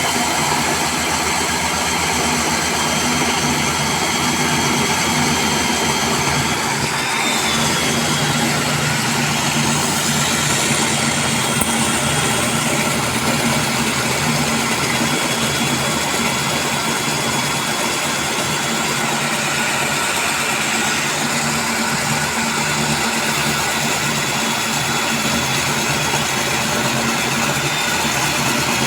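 Electric core cutting machine running steadily as it drills a core hole, with a steady high whine that wavers briefly about seven seconds in and again near the end.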